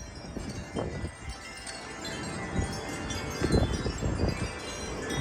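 Wind chimes ringing and clanging without pause, tossed by strong gusting wind, with gusts rumbling on the microphone.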